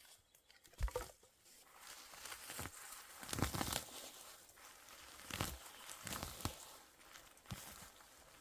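Rustling and crackling of branches and forest-floor debris being handled, with about seven irregular thuds and cracks.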